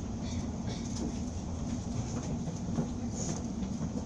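Steady low hum and rumble inside a train carriage standing at a platform, with a held droning tone and a few faint light clicks.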